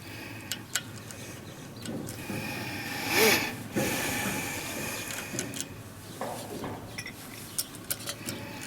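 Small, sharp clicks and a brief scraping rustle about three seconds in, from handling wires and tools at an electric motor's terminal box.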